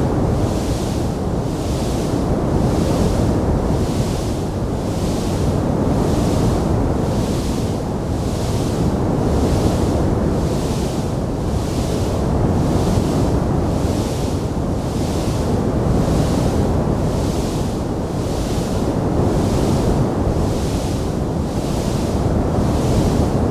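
Fireplace fire burning with a steady rushing roar and a high hiss that swells and fades about once a second; no distinct crackle pops stand out.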